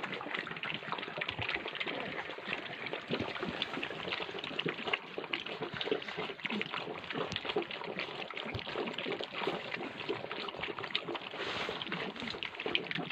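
Puppies eating together: a dense, irregular run of small wet smacking, lapping and chewing sounds.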